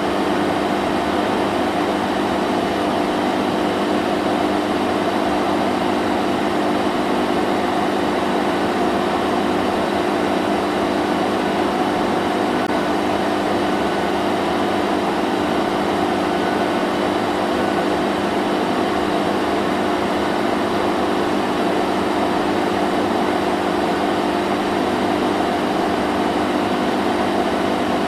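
Vacuum cleaner running steadily: an unchanging rush of air over a low motor hum.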